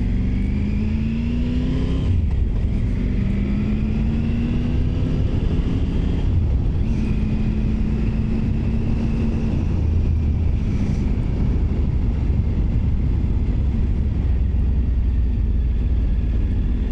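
Triumph Tiger 900 Rally Pro's three-cylinder engine pulling through the gears, its pitch rising and dropping at shifts about two and six seconds in, then holding steady. Heavy wind and road noise run under it.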